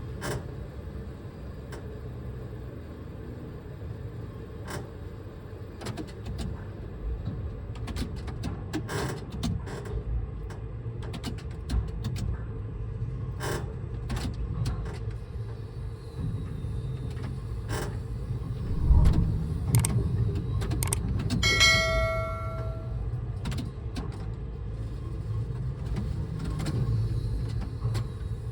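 Liebherr tower crane at work heard from inside its operator's cab: a steady low rumble of the crane's drives. Scattered clicks and knocks run over it, with a heavier thump about two-thirds through and a brief ringing tone of several pitches soon after.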